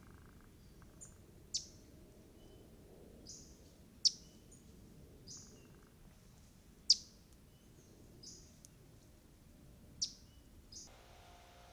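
A bird repeating a sharp, high, downward-sweeping call note about every three seconds, with softer high notes in between.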